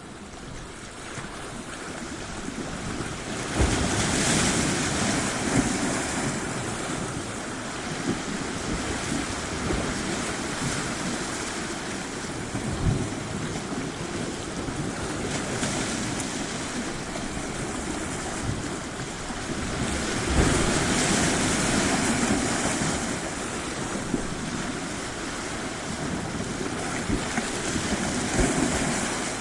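Ocean waves washing onto a shore. The surf swells and falls back every several seconds and fades in over the first few seconds, with a few short low thumps.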